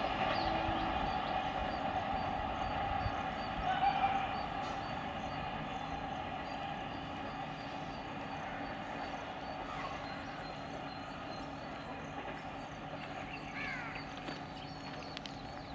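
A train running away along the track, its steady rumble with a faint hum slowly fading as it moves into the distance. A few short bird chirps near the end.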